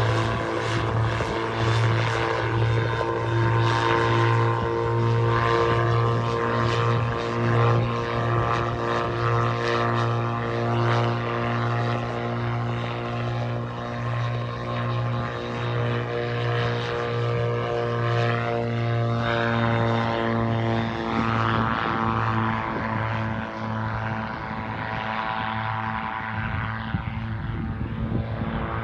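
Single-seat gyroplane's engine and propeller running steadily, the pitch drifting slightly up and down.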